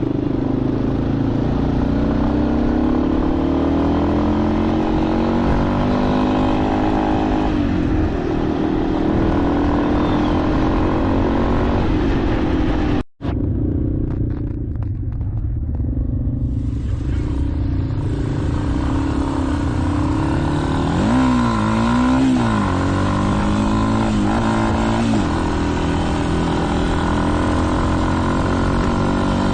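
Motorcycle engine running while riding, its pitch rising and falling with throttle and gear changes. The sound cuts out abruptly for a moment about thirteen seconds in.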